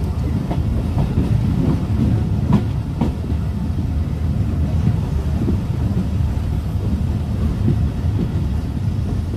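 Passenger train coach running along the track, heard from the open doorway: a steady rumble of wheels on rails, with several sharp clicks of wheels over rail joints in the first three seconds.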